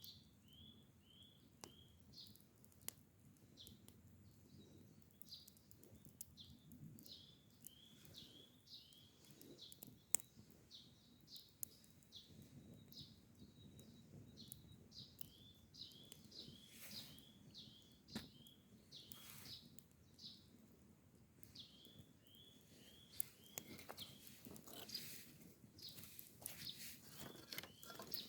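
Faint bird calls: runs of short, repeated chirps throughout, with a few sharp clicks scattered among them.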